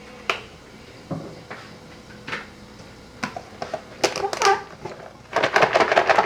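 Kitchen handling sounds during salad making: scattered single knocks and taps, then a busier clatter about four seconds in and a louder, denser rattle near the end.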